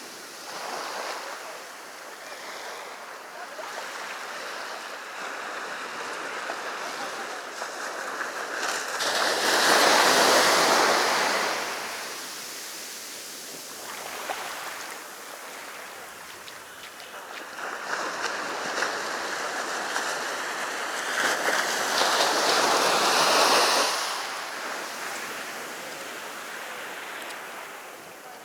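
Sea waves breaking and washing up the beach, a steady rushing surf that swells louder twice: once about ten seconds in and again around twenty-two seconds in.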